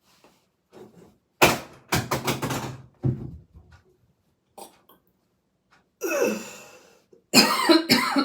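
Heavy breathing and coughing from a person coming out of a stomach-vacuum hold: a loud forceful exhale about a second and a half in, then gasping breaths and short coughs near the end.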